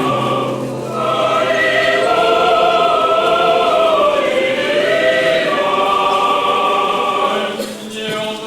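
Choir singing a slow chant in long held chords, the voices moving gently in pitch, with a change to a new phrase near the end.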